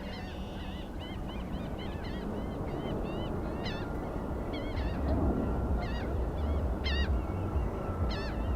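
Birds giving many short, arched calls in quick, irregular succession over a steady low rumble.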